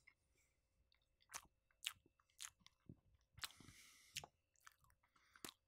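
Faint close-miked chewing of a Popeyes biscuit: soft mouth clicks and smacks about every half second, with a short hiss a little past the middle.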